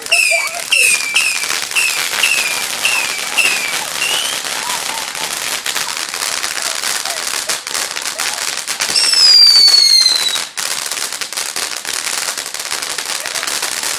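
Fireworks going off: a quick run of short, falling whistles over the first few seconds, dense crackling and popping throughout, and one long, loud falling whistle about nine seconds in that cuts off suddenly after a second and a half.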